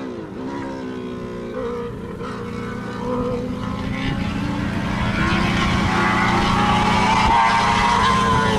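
Open-wheel race car engines running at speed. The engine note drops right at the start, then climbs steadily and grows louder as the cars accelerate toward the listener.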